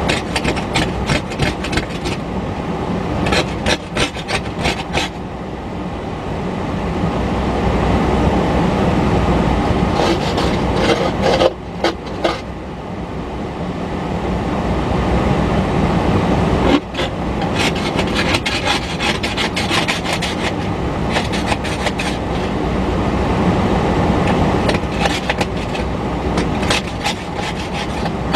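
Freight train passing close by: steel wheels rolling over the rails with a dense run of clicks and a steady rumble that swells and eases as the cars go by.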